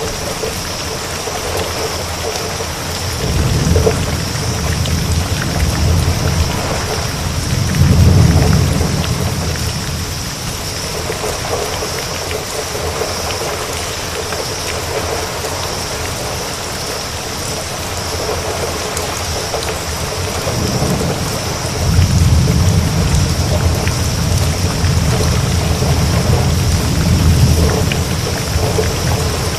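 Steady heavy rain with rolling thunder: one long low rumble building to a peak about a quarter of the way in, and a second long rumble in the last third.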